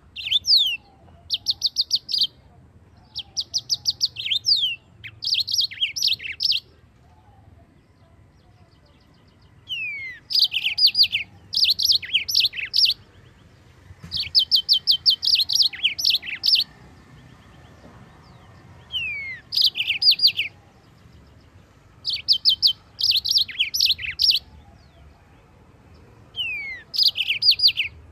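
Yellow-fronted canary (mozambik) singing: short bursts of rapid, high trills and slurred whistles, each a second or two long, with pauses of a few seconds between phrases.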